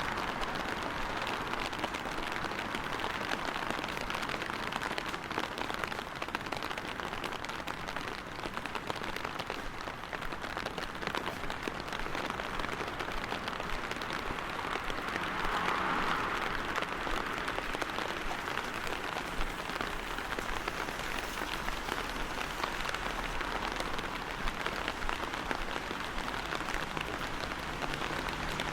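Steady rain falling and pattering densely on hard surfaces. It swells briefly about halfway through.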